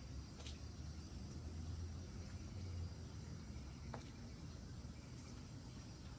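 Quiet background with a steady low hum and two faint sharp clicks, one about half a second in and one about four seconds in.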